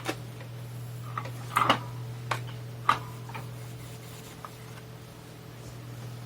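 Light clicks and taps of a soldering iron tip and solder against a circuit board while joints are re-soldered, about half a dozen in the first four seconds, over a steady low electrical hum.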